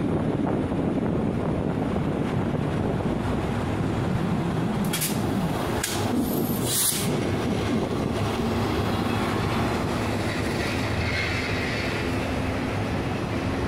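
Freight train of hopper wagons hauled by Taiwan Railways electric locomotive E323 rolling slowly out of a station: steady rumble with wheels clattering over the rail joints. A few short high hisses come between about five and seven seconds in.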